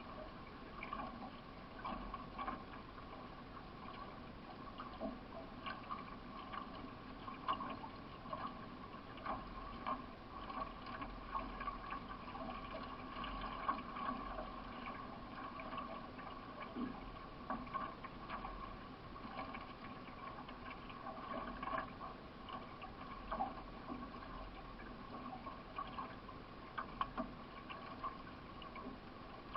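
Water splashing and trickling from paddle strokes alongside a solo racing canoe, with many small irregular knocks and drips.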